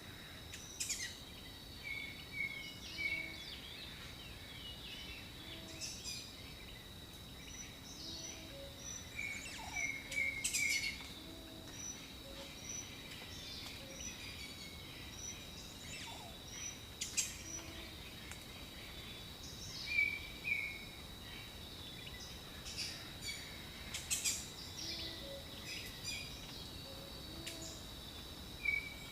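Jungle ambience with several birds calling: short notes in quick runs of three or four, sharp high chirps, and a faint low call repeating every second or two, over a steady high-pitched drone.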